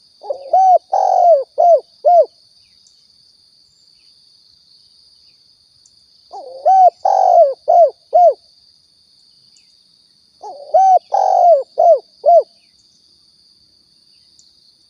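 Spotted dove (tekukur) cooing: three phrases of several arched coos, each about two seconds long, spaced about four seconds apart. A faint steady high whine runs underneath.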